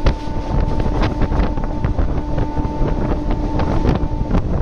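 Wind rushing over the microphone at the open door of a moving passenger train, over the rumble and irregular clatter of its wheels on the rails. A steady hum runs beneath and breaks off briefly near the end.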